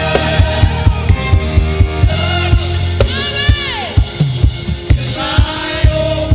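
Gospel worship band music: a drum kit keeps a steady beat over sustained low notes. A long falling note sounds about three seconds in.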